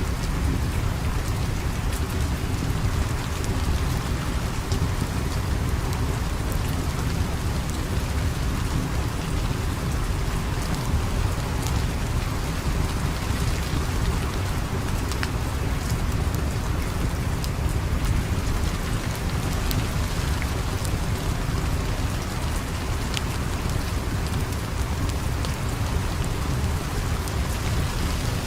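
Steady rain falling, with a deep low rumble under it and scattered sharp little crackles throughout.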